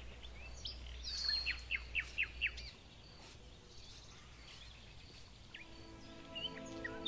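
Outdoor birdsong: one bird gives a quick run of about six sharply falling notes between about one and a half and two and a half seconds in, and other birds add scattered short chirps. A low steady rumble stops after a couple of seconds.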